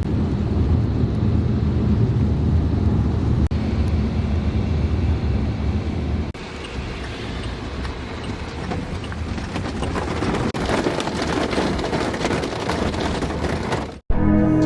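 Outdoor ambience of traffic and rain: a steady low rumble, shifting after a few seconds to a brighter, denser hiss that grows louder and cuts off abruptly near the end.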